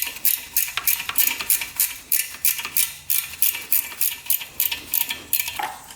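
Quick, even tapping of a tool on a motorcycle carburetor, about three or four light metallic taps a second, working a stuck part loose.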